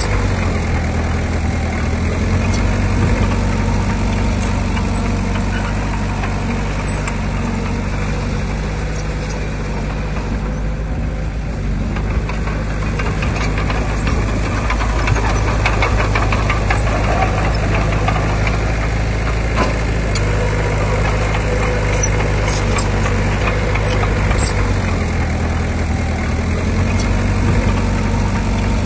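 Diesel engine of heavy earthmoving machinery running steadily at low revs, with scattered clanks and rattles about halfway through.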